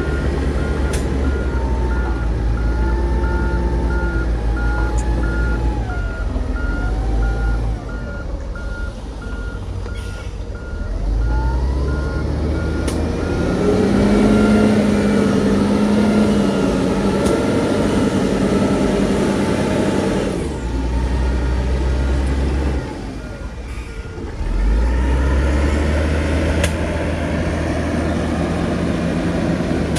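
Heavy diesel earthmoving machinery running, its engine note rising and falling under load, with a reversing alarm beeping in a steady rhythm during the first third and again briefly near the end.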